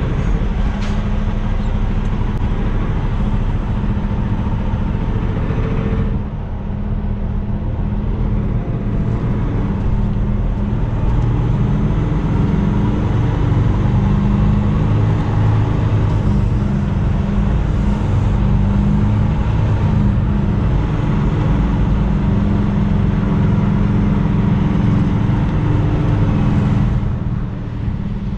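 Semi-truck driving on the road: a steady low engine drone with road noise, dipping briefly about six seconds in and again near the end.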